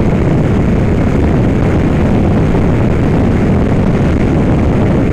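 Motorcycle riding at motorway speed: a steady, loud rumble of wind buffeting the camera microphone, with the engine and road noise beneath it.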